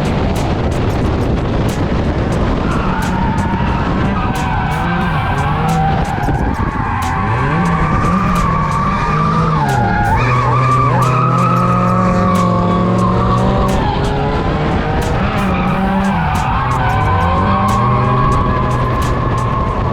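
Drift car engine revving up and falling back over and over through the corners, with tyres skidding and many sharp clicks.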